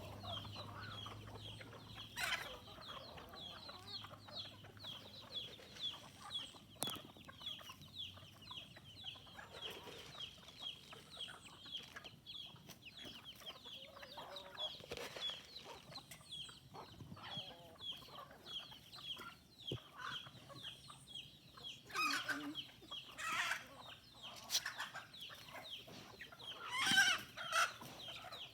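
Chickens clucking, with a steady run of short, high chirps throughout and louder squawking calls about two-thirds of the way through and again near the end.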